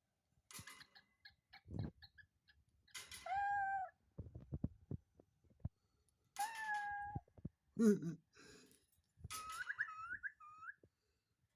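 Kakariki parakeet calling: quick runs of rapid chattering notes, two drawn-out whistled calls, and short wavering whistles near the end. Low thumps come between the calls.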